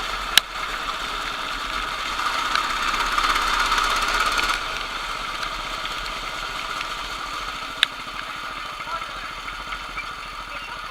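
Kart engines running steadily, swelling louder for a couple of seconds before easing off. There are two sharp clicks, one about half a second in and one near eight seconds.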